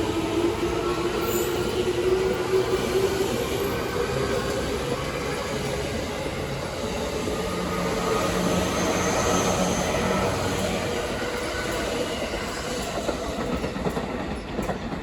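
E233-3000 series electric multiple unit pulling out of a station. The traction motors' whine rises slowly in pitch as it accelerates, over steady rumbling of wheels on rail.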